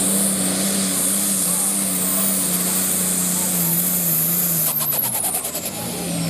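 Pulling tractor's diesel engine running hard at steady high revs. About five seconds in, the revs drop away with a rattle and a high whine falling in pitch as the pull ends.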